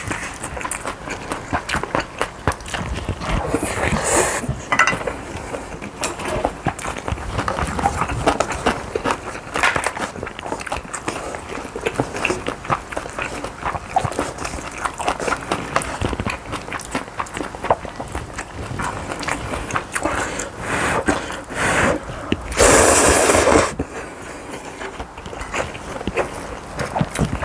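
Close-miked eating sounds over a bowl of bibimbap: a spoon clicking and scraping against the bowl, with chewing and mouth sounds. A little over twenty seconds in comes a louder noisy sound lasting about a second.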